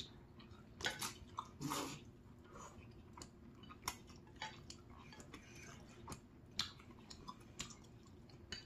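Close, quiet chewing of spicy seafood instant noodles: soft mouth smacks and small clicks scattered throughout, a little louder about one to two seconds in.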